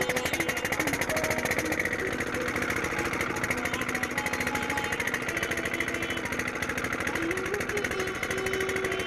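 Old diesel tube-well engine running steadily, its firing a fast, even pulse.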